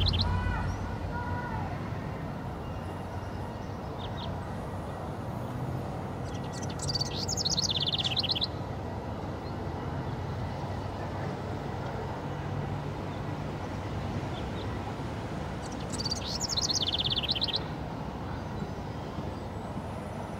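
Small bird singing a short, high trill of rapid chirps that falls in pitch, heard twice about nine seconds apart, over a steady low background hum.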